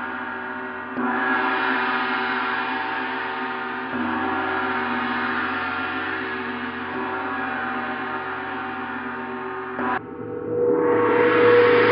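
Planet-tuned gongs ringing in a dense wash of overtones, swelling up about a second in and again about four seconds in. The sound changes abruptly near ten seconds, and a new swell builds to the loudest point near the end.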